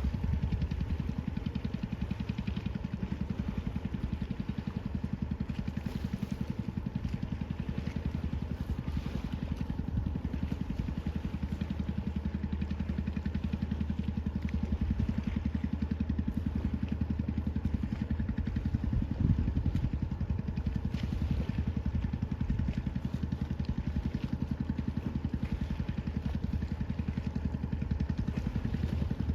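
An engine running steadily at even, low revs, with a constant low hum and a fast, regular pulse.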